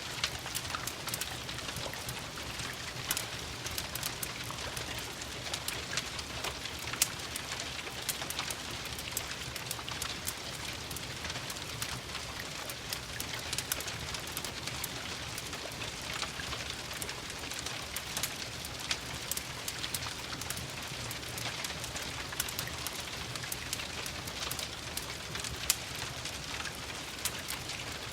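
Steady rain hiss mixed with a crackling wood fire: many small sharp crackles throughout, with a couple of louder pops, over a low rumble.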